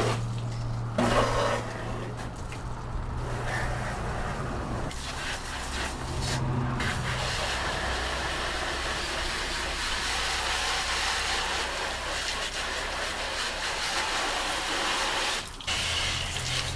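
Four-wheeler (ATV) engine running under a steady rushing noise, its low engine note dropping about five seconds in.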